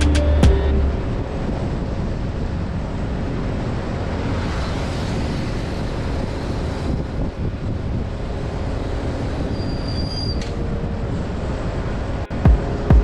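Steady rumbling noise of a motorbike ride: wind on the microphone mixed with engine and road noise.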